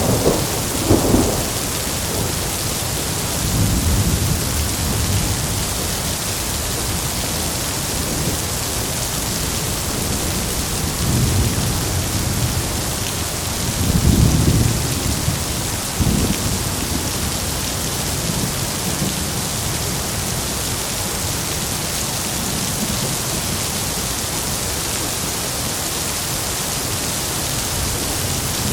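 Heavy rain falling in a steady hiss, with several low rolls of thunder rumbling through it. The loudest roll comes about halfway through, followed shortly by a sharper clap.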